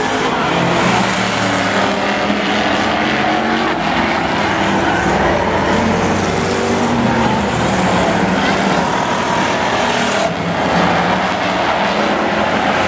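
Several demo-race pickup trucks running hard around a speedway oval. Their engine notes overlap and shift in pitch.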